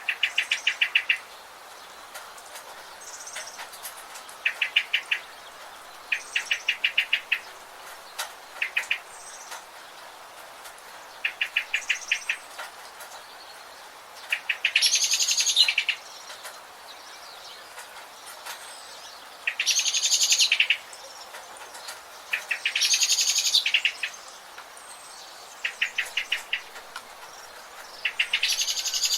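Forest birds calling in turn over a steady background hiss. Short, fast trills of evenly spaced notes come every couple of seconds, and from about halfway through they alternate with longer, denser and louder calls lasting about a second each.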